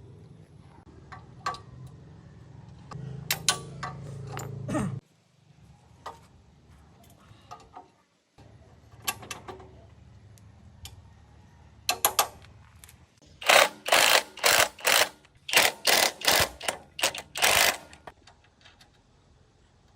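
Scattered clicks and knocks of hand tools at work, with a low hum that cuts off about five seconds in. In the second half comes a run of about nine sharp strikes, roughly two a second.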